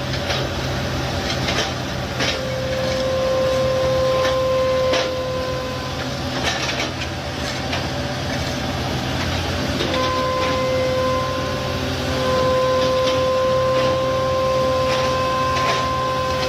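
Heavy road-construction machinery running: a steady engine hum with repeated clanks and knocks. A mechanical whine rises above it for a few seconds about two seconds in, and again from about ten seconds in.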